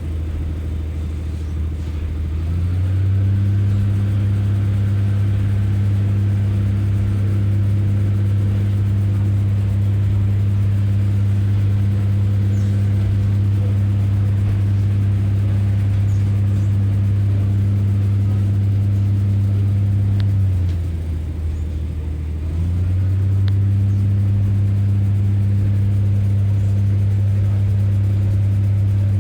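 The underfloor diesel engines of a British Rail Class 144 Pacer railcar running under power with a steady low drone. The engine note rises and gets louder about two seconds in, drops back about twenty seconds in, and picks up again about two seconds later.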